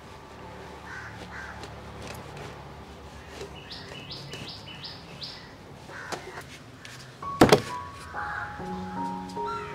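Low background with a bird chirping five quick rising notes near the middle. About seven and a half seconds in comes a single sharp knock, and soft held music notes start up near the end.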